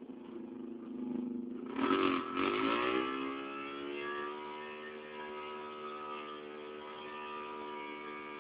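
Drag-racing motorcycle engine revving up suddenly about two seconds in, then held at a steady high rev.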